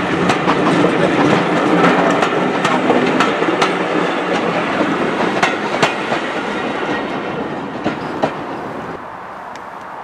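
Railway passenger coaches rolling past on the track, their wheels clicking irregularly over rail joints. The sound fades as the train draws away and drops off just before the end.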